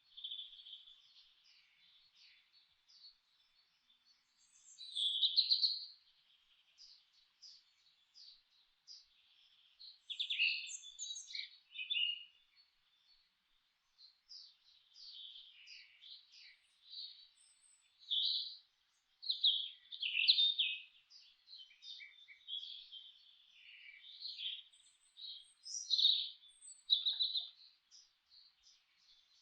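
Several songbirds chirping and singing in short, overlapping high-pitched phrases, coming in bursts with brief lulls between them.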